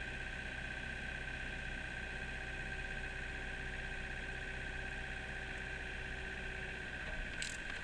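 Kubota mini excavator's diesel engine running steadily under the operator's seat, with a steady high drone from the machine as the arm works down into the ground. A short sharp click near the end.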